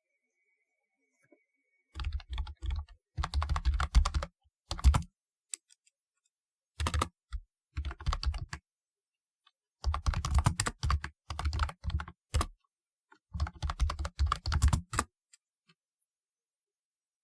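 Typing on a typewriter-style mechanical keyboard with round keycaps: runs of rapid key clicks with a low thud under many strokes, broken by short pauses, stopping about three seconds before the end.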